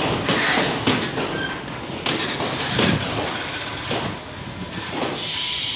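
Railway coaches rolling slowly past at close range as the train pulls into the station, their wheels clacking over rail joints about once a second. Near the end a steady hiss starts.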